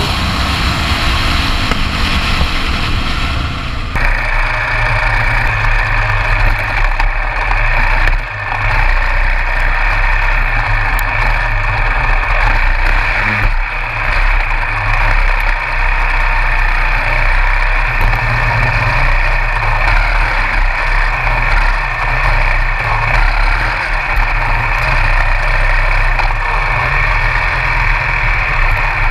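Honda XR650R's single-cylinder four-stroke engine under way, with wind rushing: at first the engine note falls as the bike slows from about 96 mph, then from about four seconds in a steadier, lower engine note at cruising speed on a dirt trail.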